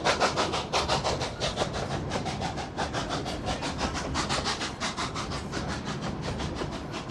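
Narrow-gauge steam locomotive working hard upgrade, its exhaust beating evenly at about four beats a second and slowly getting quieter.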